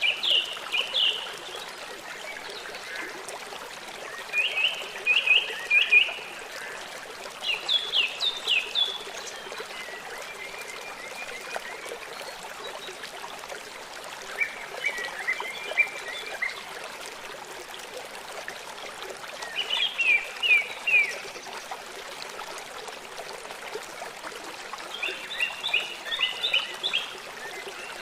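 A songbird singing short phrases of quick repeated chirps, about one phrase every three to five seconds, over the steady rush of a small stream or trickling water.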